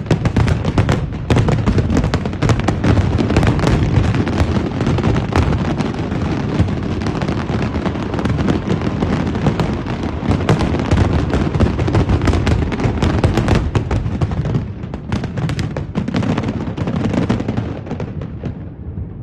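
Large aerial fireworks display: a dense, continuous barrage of booming shell bursts and crackling. The barrage thins out in the last few seconds.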